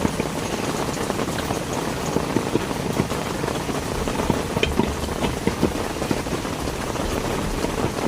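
Heavy rain falling steadily, with a dense patter of close, sharp drop hits throughout.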